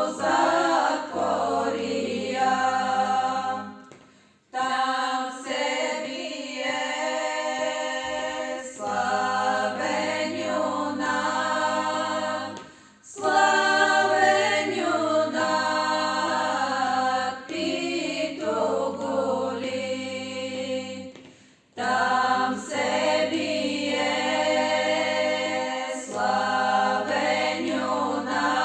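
Choir singing a cappella in long held phrases, with brief pauses between phrases about four, thirteen and twenty-two seconds in.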